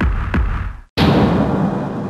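Soundtrack percussion hits in a dramatic build-up: two heavy strikes about a third of a second apart, then a bigger hit about a second in that rings out and slowly fades.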